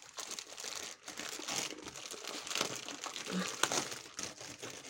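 Packaging crinkling and rustling as it is handled, a steady stream of small crackles.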